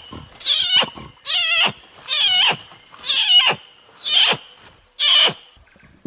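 Orangutan calling: six loud squealing calls, each sliding steeply down in pitch, about one a second.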